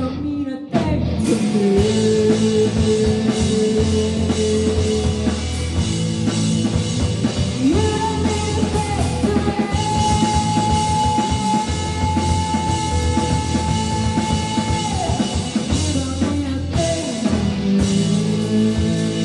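Live rock band playing: drum kit and guitars, with a long held high note through the middle. The band stops for a moment right at the start, then comes back in.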